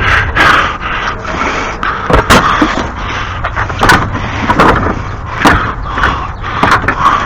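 Metal clicks, knocks and scraping of a socket wrench being worked on a lawn mower's blade bolt, irregular and stop-start, over a steady low rumble.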